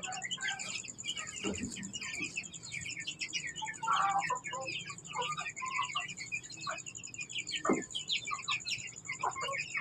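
A group of chicks peeping continuously in many rapid, short, high cheeps, with a few louder, lower calls standing out, one about four seconds in and another near eight seconds.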